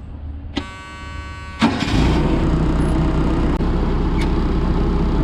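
Car engine starting: a click and a steady whine for about a second, then the engine catches and settles into a loud, steady run.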